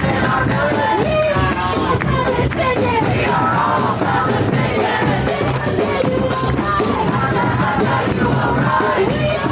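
Music with many voices singing or chanting together over shaken, rattling percussion.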